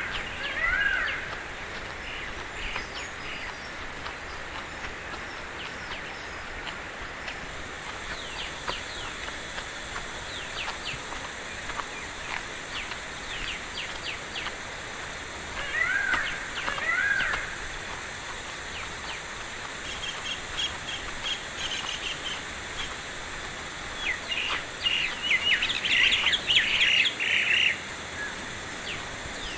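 Wild birds calling in woodland: a pair of arched whistled notes near the start and again about halfway, scattered short chirps, and bursts of rapid chirping in the last few seconds.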